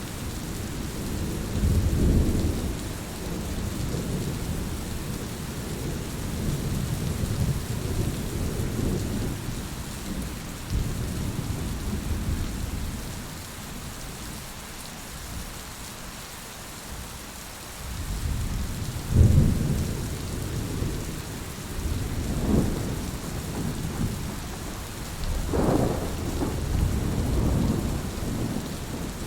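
Heavy rain falling steadily, with low thunder rumbling that swells and fades. Louder peals come a little after the middle and again near the end.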